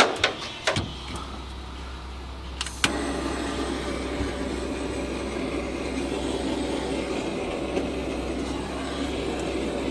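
A few sharp clicks, then about three seconds in a small electric motor starts and runs steadily over a constant low drone.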